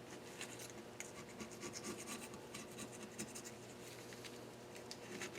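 Rapid, irregular scraping and rubbing strokes on the deck face of a Nissan KA24DE cylinder head, cleaning residue off it to get a clean surface for a flatness check.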